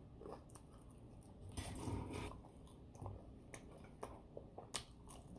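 A person chewing and biting into fried chicken and fries, faintly, with scattered small clicks and a louder stretch of chewing about two seconds in.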